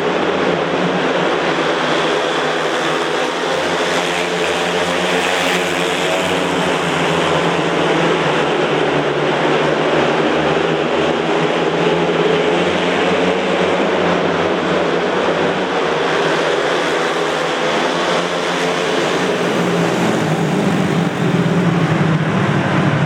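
Several speedway motorcycles racing, their single-cylinder engines running together in a steady, loud, wavering drone.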